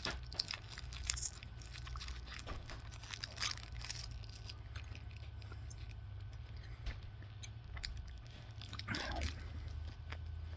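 Faint chewing of a soft, chewy Hi-Chew candy, with scattered small mouth clicks and smacks, over a low steady hum.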